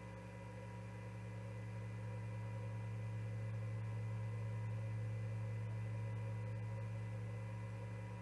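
Steady electrical hum: a strong low drone with a few faint, fixed higher tones over light hiss, swelling slightly toward the middle.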